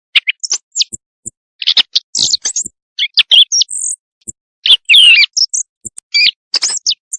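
Recorded birdsong played as a night hunting call: a rapid, loud run of varied chirps, squeaky whistles and gliding notes in short phrases with brief gaps.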